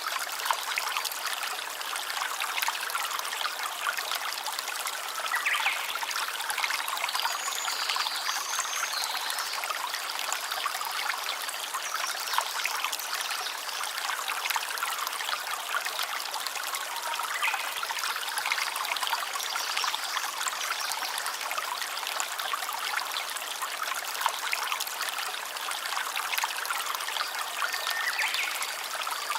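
Small stream trickling and babbling over stones, a steady splashing with no pauses.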